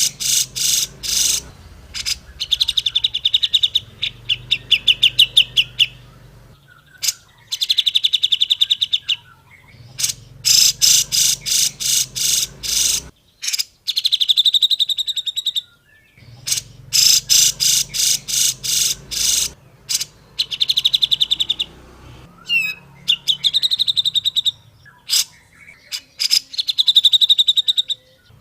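Grey-cheeked bulbul (cucak jenggot) singing: bouts of rapid chattering notes and fast trills, repeated over and over with short pauses between them.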